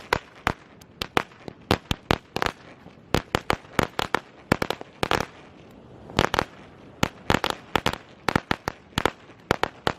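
Firecrackers going off in a long, irregular run of sharp bangs, often several a second, with short gaps between clusters.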